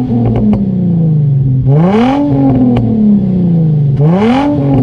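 Infiniti G35's 3.5-litre V6 with a muffler delete, revved twice at standstill: each rev rises quickly and then falls slowly back toward idle. A few sharp exhaust pops come as the revs drop.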